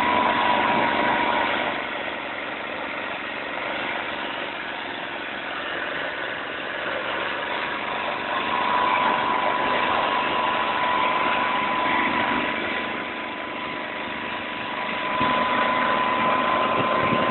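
Engine of a Motor Sich motor cultivator running steadily, with a thin steady whine through it; the sound dips in level twice and comes back up.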